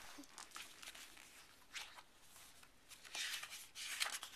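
Soft paper rustling as the pages of a picture book are handled and turned: a short rustle about two seconds in and a longer one a little after three seconds.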